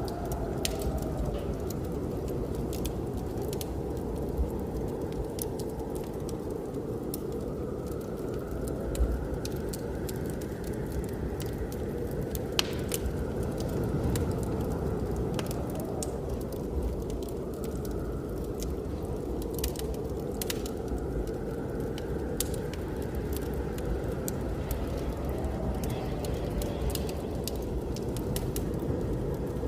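Wood fire crackling with frequent sharp pops over a steady low rumble of blizzard wind that swells and fades in slow gusts.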